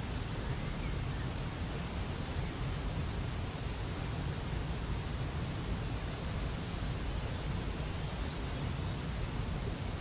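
Steady rushing of a waterfall, with a bird's faint short high chirps coming in small groups every few seconds.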